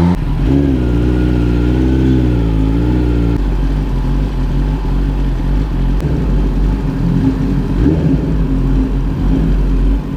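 Kawasaki ZX10R's inline-four engine, through an Arrow Indy Race exhaust, running at low revs while riding in traffic. Its pitch wavers up and down for about three seconds, then holds steadier and lower.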